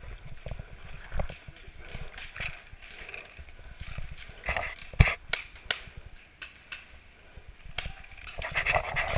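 Movement noise on a body-worn camera: irregular low thumps and rustling. A sharp crack about five seconds in is the loudest sound, followed by a few lighter clicks.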